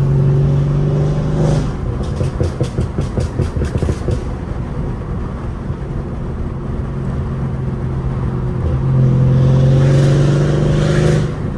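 Mercedes CLS550 twin-turbo V8 with downpipes accelerating hard: the engine note pulls strongly, then cuts off about a second and a half in, followed by a quick run of crackles. Near the end it pulls again with rising pitch and cuts off abruptly.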